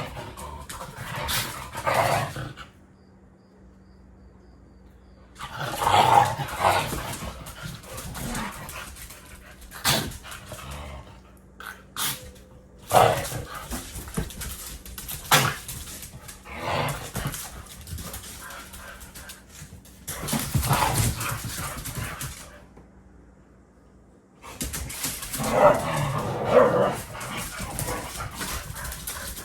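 Dogs barking and playing, in repeated loud bursts with sharp single barks, broken by a couple of short lulls.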